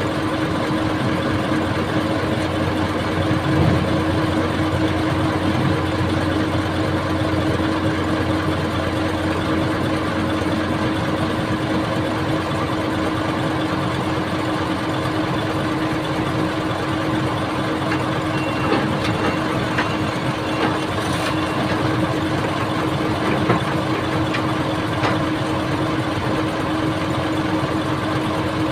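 Old excavator's diesel engine running steadily at an even pitch, with a few faint knocks over it in the second half.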